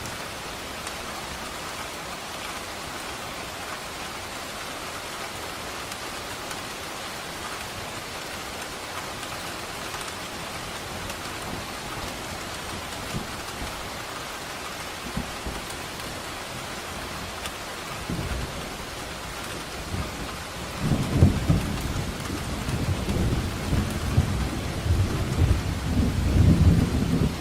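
Steady heavy rain hissing, with a roll of thunder building about two-thirds of the way in and rumbling loudest near the end.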